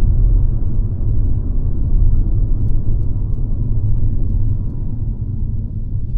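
Mercedes-Benz C-Class (W206) on the move: a steady low rumble of engine and road noise, with a few faint ticks about three seconds in.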